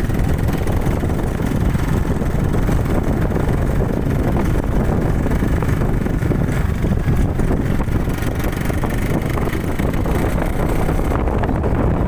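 Steady low rumble of a motorcycle ride: the engine running under wind buffeting the microphone.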